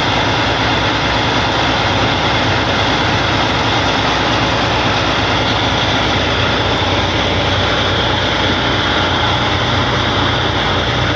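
Tow truck's engine running steadily, a low engine hum under constant, even noise with no change in level.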